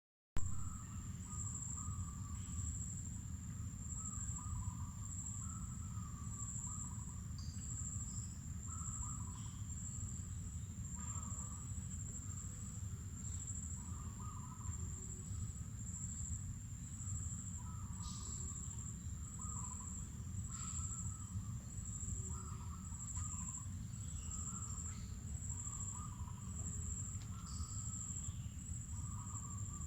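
Mangrove forest ambience: insects trilling steadily at a high pitch, with irregular lower chirping calls and a few short bird chirps over a low steady rumble.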